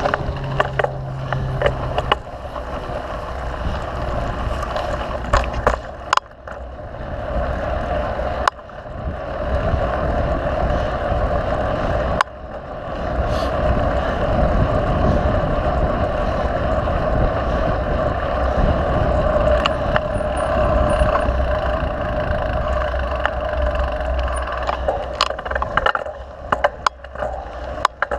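Mountain bike rolling along a dirt trail: continuous tyre and riding noise with frequent sharp clicks and rattles from the bike over bumps, briefly easing a few times.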